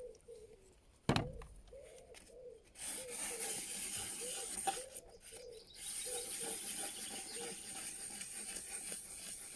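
Wet sandpaper being rubbed by hand over a painted wooden chair, a hissing scrape in long strokes. There is a sharp knock about a second in.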